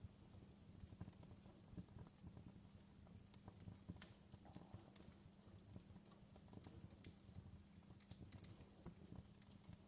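Quiet crackling wood fire in a fireplace: irregular small pops and snaps over a low steady hum.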